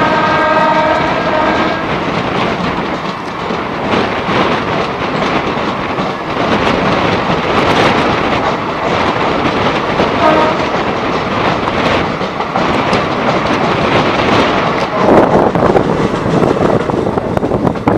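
Passenger train running on rails with steady clickety-clack of wheels over rail joints. A train horn sounds at the start and stops about a second and a half in, and a brief horn note comes again about ten seconds in.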